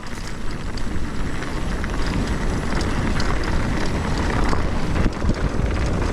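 Mountain bike rolling down a rough dirt trail: steady tyre noise with many small clicks and rattles from the bike, and wind rumbling on the microphone.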